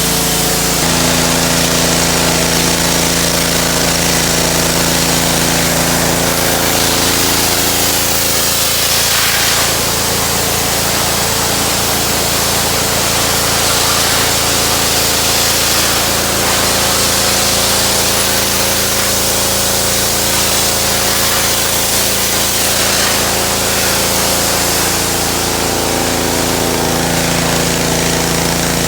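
Pressure washer running steadily, its motor's hum shifting pitch a few times under changing load, over the hiss of the water jet spraying.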